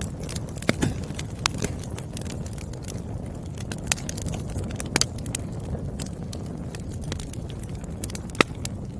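Firewood burning in a fire, crackling: a steady low rumble of flames with irregular sharp pops and snaps, the loudest snap near the end.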